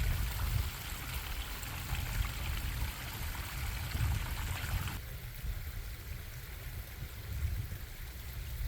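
Stream water running and bubbling, a steady rushing hiss over a low rumble. About five seconds in, the sound abruptly thins as its middle tones drop away.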